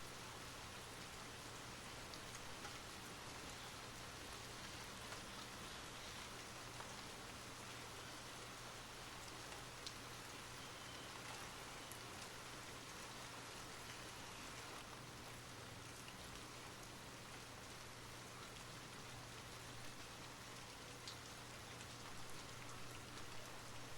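Steady rain falling, with the odd single drop pattering out clearly.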